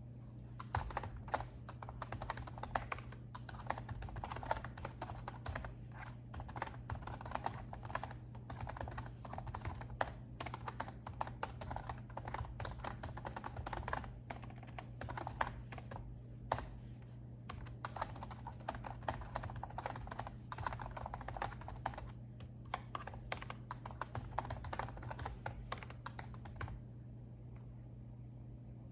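Fast, continuous typing on a laptop keyboard, a rapid patter of key clicks with a couple of short pauses. It stops a couple of seconds before the end.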